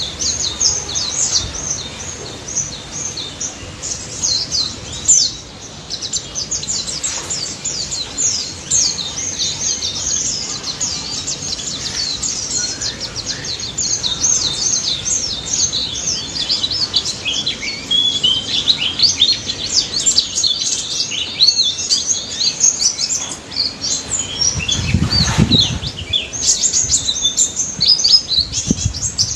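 White-eye (pleci) song: a fast, unbroken run of high twittering chirps and trills. A brief low rumble comes in near the end.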